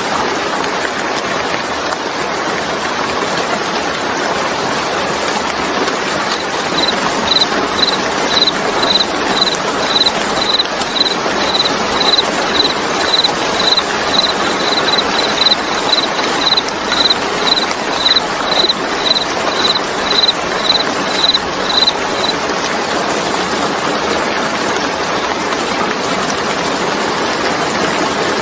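Steady rain falling. From about seven seconds in, a short high chirp repeats about twice a second for some fifteen seconds, then stops.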